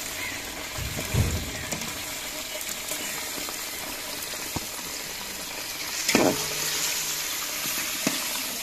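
Meat pieces and fried onions sizzling in hot oil in a large metal cooking pot, a steady hiss. A couple of louder knocks from the slotted spoon against the pot come about a second in and again around six seconds in.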